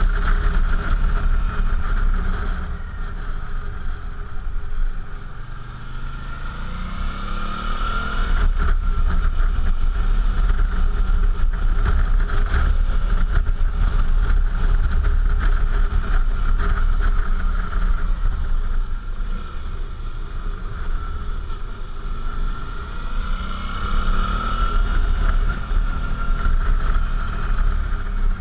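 Suzuki V-Strom motorcycle's V-twin engine running on the road, its pitch dropping as it eases off a few seconds in and climbing as it pulls again about eight seconds in, then easing and pulling once more near the end.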